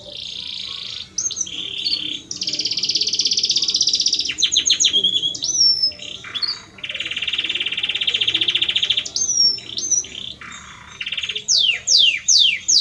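Male Belgian canary singing to a female: long, rapid trilled rolls alternating with short rising and falling whistled notes, then a run of quick downward-sweeping notes near the end.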